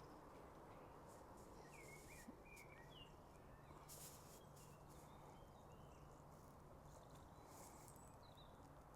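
Faint small birds chirping, short scattered calls through most of the stretch, over a quiet background hiss and a low steady hum.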